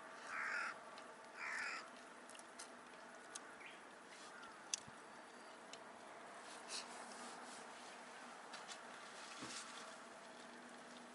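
A crow cawing twice near the start, two calls about a second apart, over faint background with a few small scattered ticks.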